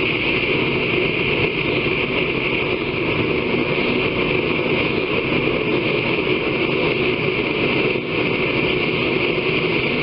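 Power grinder running steadily against a steel blade, grinding the edge of the seax: a continuous loud hiss.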